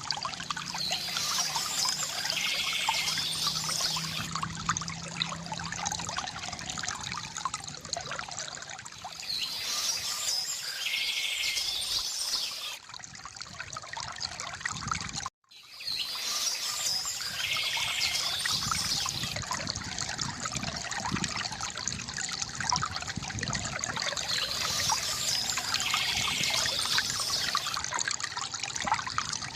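Small stream trickling and splashing steadily, with a songbird singing a short phrase about every eight seconds. The sound cuts out for an instant about halfway through.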